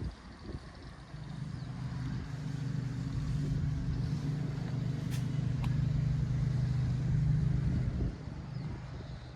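A vehicle engine with a low, steady hum that grows louder over the first few seconds, holds, then drops away sharply about eight seconds in.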